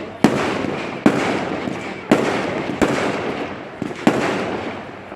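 Fireworks going off: about six sharp bangs, roughly one a second, each followed by a fading tail.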